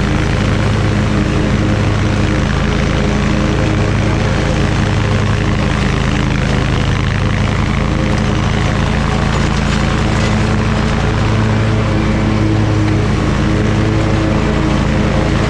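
Toro Titan Max zero-turn mower engine running steadily under mowing load, a constant loud drone.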